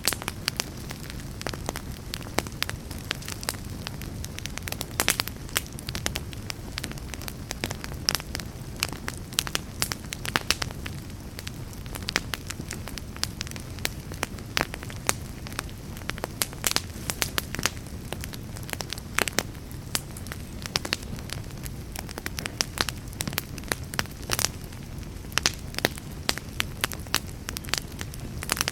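Fire burning in a fireplace, crackling with frequent, irregular sharp pops over a steady low sound of the flames.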